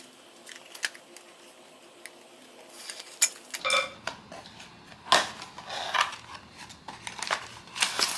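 Hands handling blind-box packaging and small plastic toy parts: scattered light clicks and taps, then bursts of rustling and crinkling in the second half.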